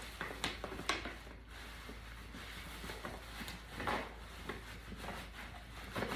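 Tissue paper and a gift bag rustling and crinkling in short bursts as a dog noses and digs into the bag.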